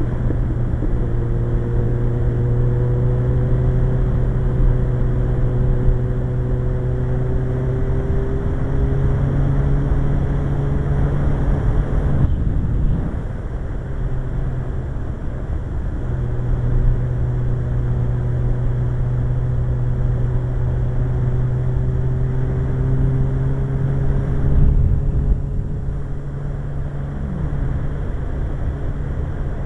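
Suzuki GSX-R 1100 inline-four motorcycle running at a steady road speed, a continuous low engine drone with slowly shifting higher tones. The engine note drops away briefly about twelve seconds in and again near twenty-five seconds.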